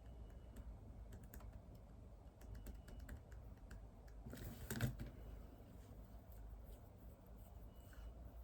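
Typing on a computer keyboard: faint, irregular key clicks, with one louder, brief noise about halfway through.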